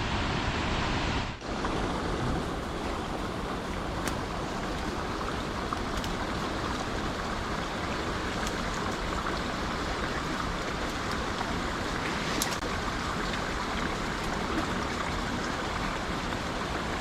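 Steady rush of water pouring down the Bomburu Ella waterfall, with a few faint clicks.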